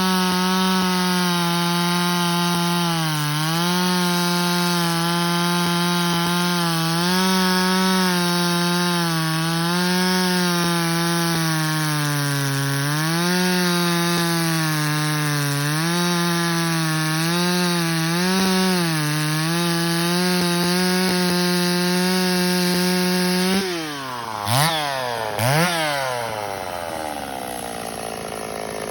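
Woods-ported Stihl 026 chainsaw cutting wood at full throttle. The high engine note sags a little and recovers several times as the chain loads in the cut. Near the end it drops to idle, is revved briefly twice, and settles into a steady idle.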